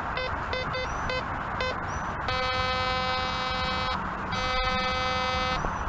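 MX50 metal detector sounding on a buried target: short beeps repeating about three times a second, then two long steady tones of about a second and a half each.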